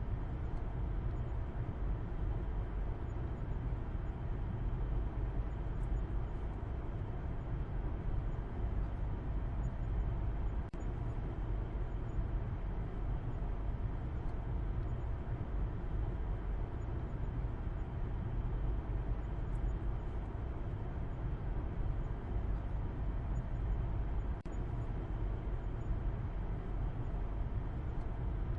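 Steady low rumble of a car driving, road and engine noise with no distinct events.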